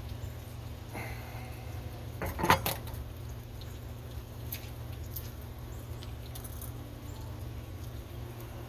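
Light clinking and rattling of small parts being handled, loudest in a brief cluster about two and a half seconds in, over a steady low hum.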